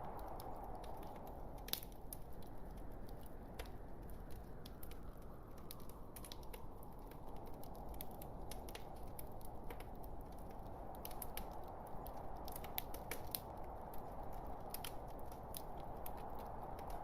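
Log fire burning with a steady rushing hiss and frequent irregular crackles and sharp pops from the burning wood.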